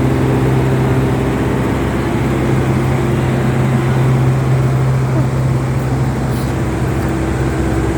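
A large engine running steadily with a low hum, over street traffic noise; the hum eases a little near the end.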